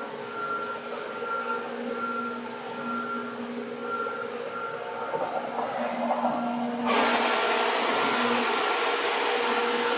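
Seibu 2000 series electric train running: steady traction hum with several held tones over wheel-on-rail noise. The rail noise suddenly grows louder and hissier about seven seconds in.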